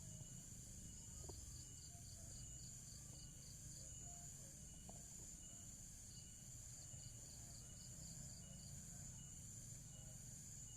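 Near silence with a faint background of crickets chirping in regular pulsed trains over a steady high insect hum.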